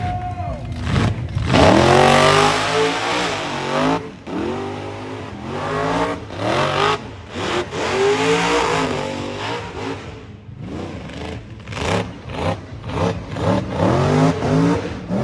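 A drift car's engine revving hard over and over. Each rev is a rising climb in pitch, and the loudest comes about two seconds in.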